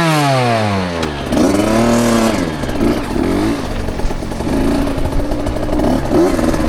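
KTM 65 SX two-stroke single-cylinder motocross engine, heard from a helmet camera. Its pitch drops steeply in the first second as the throttle comes off, rises and falls twice, then holds fairly steady near the end.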